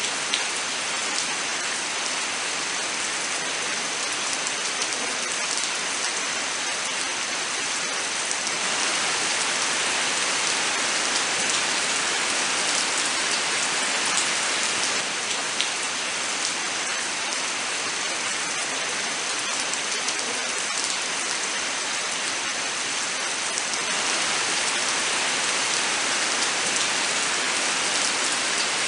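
Steady rain falling in a forest: a dense, even hiss scattered with the ticks of individual drops, swelling and easing slightly.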